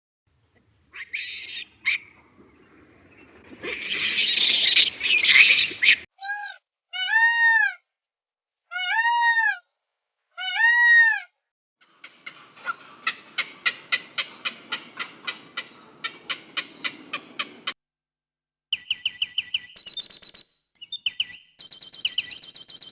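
A sequence of different animal calls: four separate calls that rise and fall in pitch, then a fast run of clicks about four a second, then high chirping near the end.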